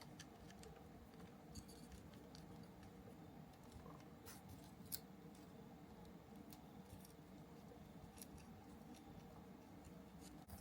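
Near silence: a steady low hum with sparse faint clicks and light handling noises, and one sharper click about five seconds in.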